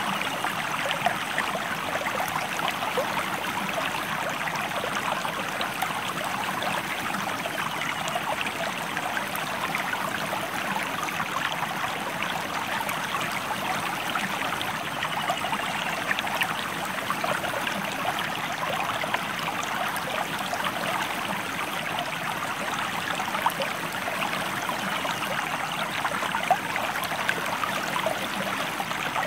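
Stream or small river flowing steadily: a continuous, even rush and babble of water.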